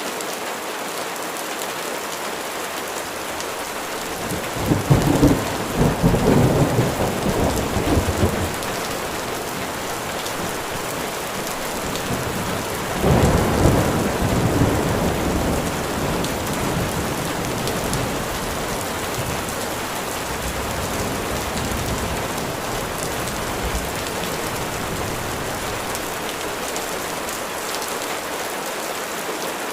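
Steady rain falling, with two rumbles of thunder: a longer one starting about four seconds in and a shorter one a little before the middle.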